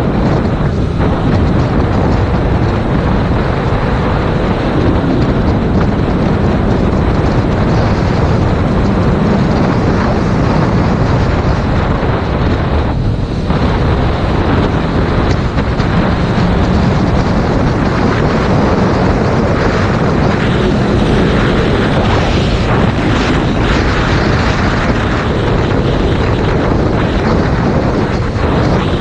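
Heavy wind buffeting on a GoPro camera's microphone during a motorcycle ride, loud and steady, with the Yamaha MT-07's parallel-twin engine running underneath.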